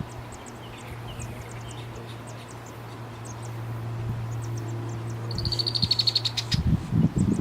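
Birds chirping: a series of short, high chirps over a steady low hum, then a buzzy, rapid trill about five seconds in. Loud uneven rumbling noise comes in near the end.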